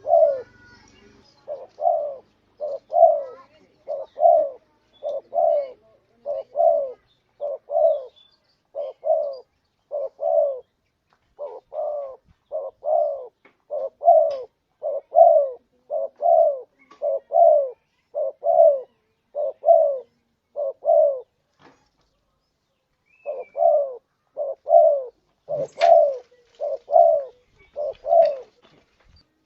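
Spotted dove (tekukur) cooing: a steady run of short, low coos at about one a second, with a brief break about three-quarters of the way through before the coos resume. Faint chirps of small birds sound now and then in the background.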